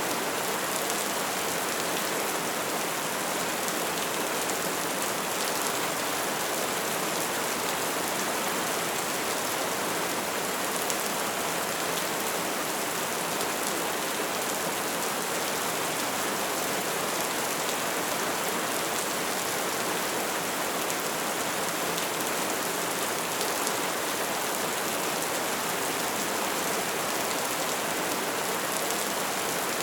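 Wood fire burning with a steady hiss of flames and a continuous scatter of small crackles and pops.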